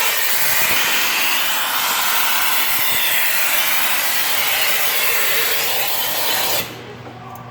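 Vacuum cleaner running steadily with a loud rushing hiss, sucking loose carbon pieces out of the EGR valve bore, then switched off suddenly near the end.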